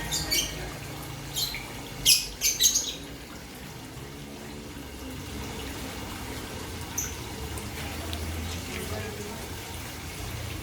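Water running and trickling steadily in a koi pond. Several short, sharp, high-pitched sounds come in the first three seconds.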